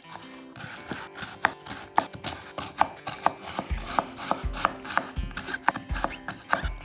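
A kitchen knife chopping vegetables on a cutting board in a string of quick, uneven strikes, over background music whose low beat comes in about halfway through.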